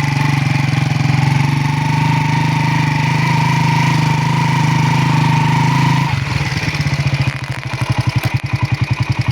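Motorcycle engine running steadily with a thin whine, then about six seconds in the throttle drops and it settles into a lower, pulsing idle.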